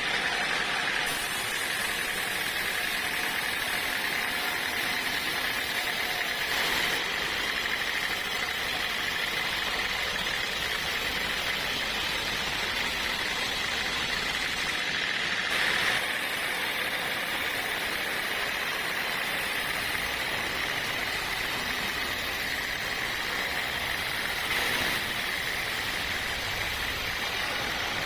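Steady running machinery, an engine-like drone with a strong hiss, which changes abruptly several times.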